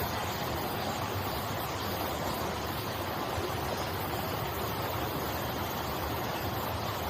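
Mountain stream water rushing and splashing steadily over rocks, a continuous even sound.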